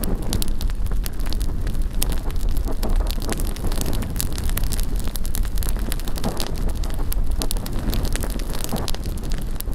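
Large bonfire burning, with many sharp crackles and pops over a steady low rumble of wind on the microphone.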